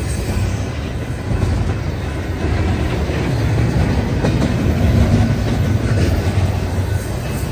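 Union Pacific manifest freight train rolling past, a steady heavy rumble with wheels clacking over the rail joints.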